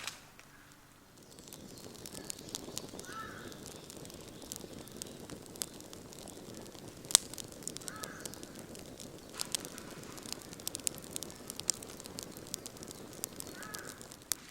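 Wood campfire crackling with sharp, irregular pops and snaps, one pop much louder about seven seconds in. A bird calls briefly three times, about five seconds apart.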